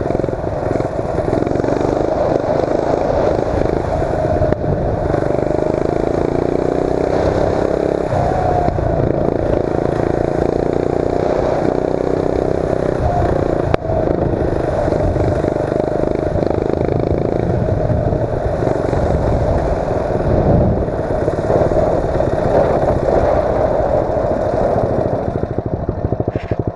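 A mini bike's 8 hp Tecumseh single-cylinder engine runs under load while being ridden. It revs up and down over and over, its pitch climbing through long pulls and dropping back between them.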